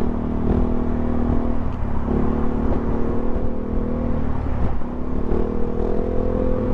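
Yamaha XMAX 300 scooter's single-cylinder engine running at a steady cruising pitch, over a heavy low rumble of wind and road. The engine note drops away briefly twice, then settles back at the same pitch.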